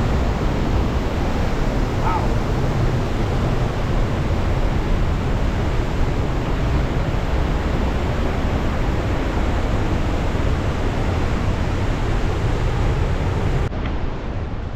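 Steady rush of a fast mountain creek, loud and full in the low end, dropping abruptly near the end.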